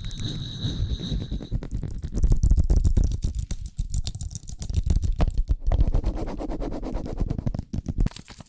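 Close-miked ASMR trigger sounds: dense crackling and rapid clicking with a deep low rumble, and a brief high ringing tone in the first second or so. About eight seconds in it cuts abruptly to a quieter, thinner trigger.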